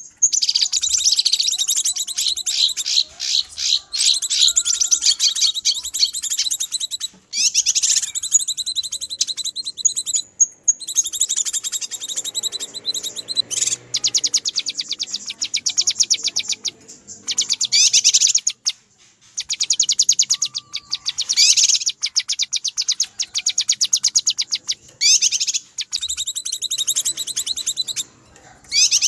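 Cucak kinoi giving agitated 'ribut' calls, the kind used to lure wild kinoi: long bouts of very fast, high chattering notes, broken by brief pauses every few seconds.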